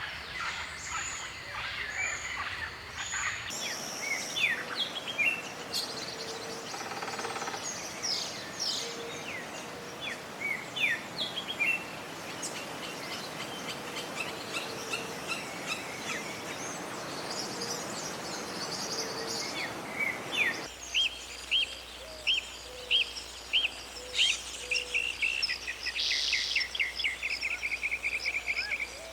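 Several forest birds singing and calling, with quick chirps and whistled sweeps over a steady hiss. The background changes abruptly twice, as if one recording gives way to another. In the last third a bird repeats a short chirp about twice a second, then a fast trill follows near the end.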